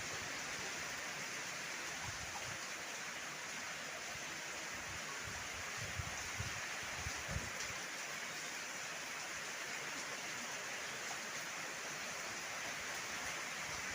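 Heavy rain falling as a steady hiss, with a few brief low rumbles of wind gusting about halfway through.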